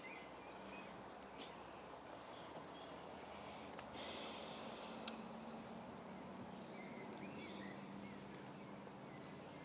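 Faint outdoor background with a few distant bird chirps. A short scratch of pencil on paper comes about four seconds in, and a single sharp click about a second later.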